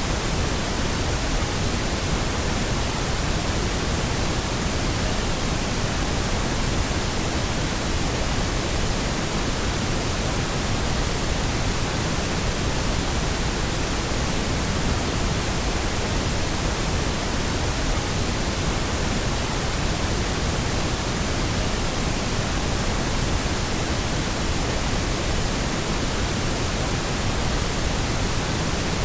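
Steady pink noise: an even, unbroken hiss spread across the whole range from deep rumble to high hiss, holding one constant level with no changes.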